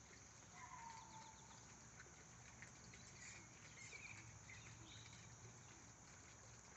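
Near silence with faint bird calls: a short falling whistle about half a second in, then a few brief high chirps a few seconds later.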